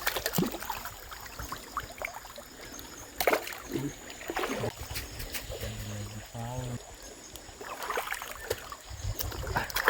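Water trickling and lapping around a small boat on a river, with scattered knocks and clicks.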